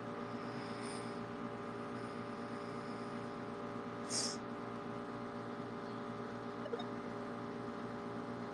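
Air conditioner running with a steady, loud hum. A short high hiss breaks in about four seconds in.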